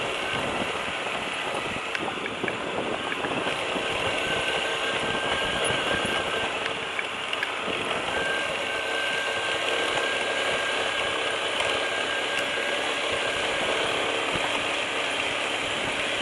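Lifan KPT200 motorcycle engine running steadily with a dense mechanical clatter.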